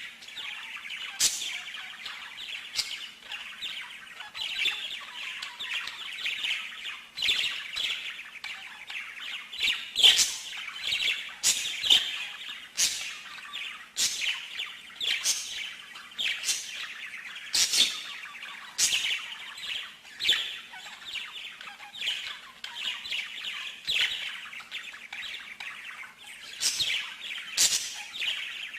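A songbird singing continuously: a fast chirping, twittering song with sharp, high-pitched notes that stand out about once a second.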